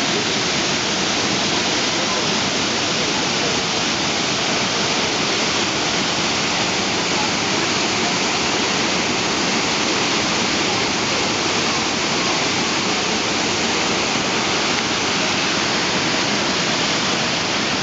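The Savica waterfall rushing: a loud, steady roar of falling water with no break or change.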